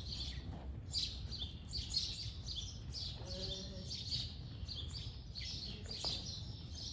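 Small birds chirping: short high chirps, two or three a second, over a low steady rumble.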